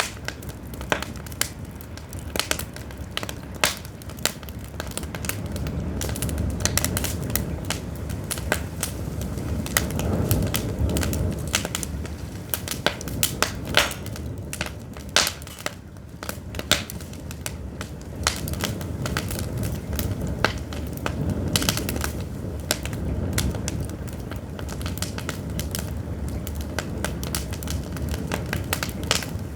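Pine firewood burning, crackling with frequent sharp pops at an uneven pace. A low rumble runs underneath and swells twice.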